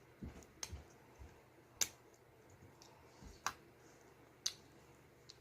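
Plastic Lego bricks clicking as they are pressed together one at a time, a sharp click every second or so, with a few soft low thuds from handling the pieces.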